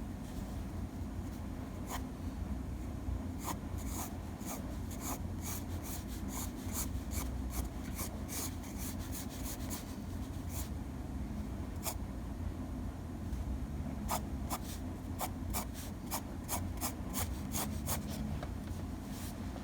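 Drawing strokes: a drawing tool scratching in quick runs of short strokes, in two spells separated by a pause, over a steady low hum.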